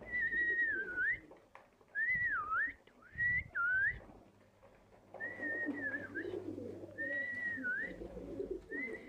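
Birds calling: clear whistled notes, each about a second long, that hold, dip and rise again, repeated with short gaps. Low, warbling cooing joins from about five seconds in.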